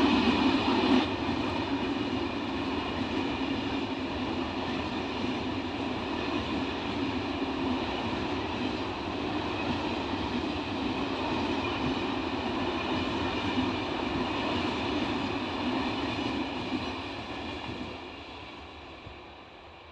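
Corail passenger train passing: its horn cuts off about a second in, then the steady running noise of the coaches goes by and fades away over the last few seconds.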